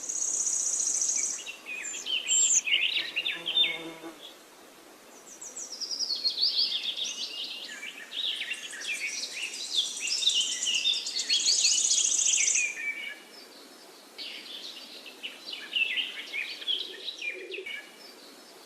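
Several songbirds singing at once: quick gliding chirps and fast, high trills overlapping in phrases, with short lulls between them. A brief lower-pitched call comes in about three seconds in.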